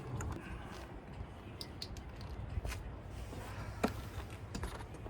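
Faint handling noise over a low rumble: scattered small clicks and taps from hands working on parts, with one sharper click a little before four seconds in.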